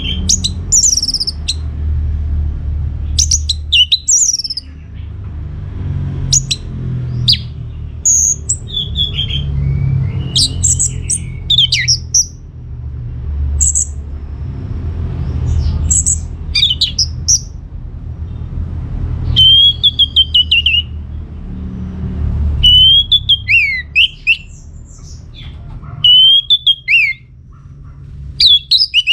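Orange-headed thrush singing a fast, varied song of short whistled phrases, quick up-and-down glides and harsher notes, over a steady low rumble.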